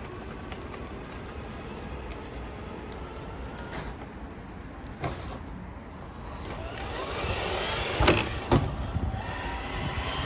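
Scale RC crawler truck's electric motor and geartrain whining, rising in pitch and getting louder about two-thirds of the way in, with two sharp knocks close together near the end.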